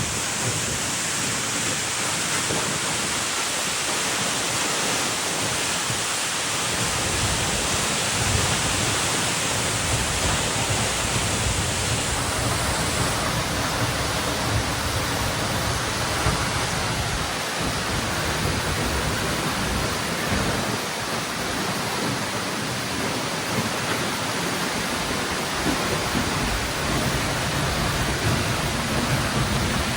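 A waterfall rushing: a steady, loud hiss of falling water that holds even throughout.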